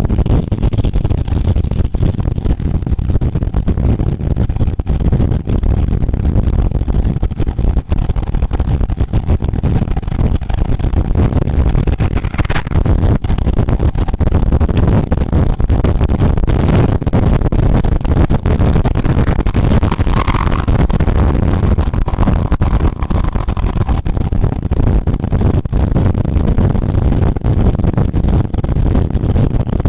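Wind rushing over the microphone of a camera riding with a road cyclist at speed: a loud, steady, low rumble.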